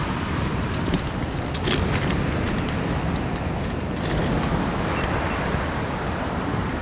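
Steady rushing of creek water mixed with wind buffeting the microphone.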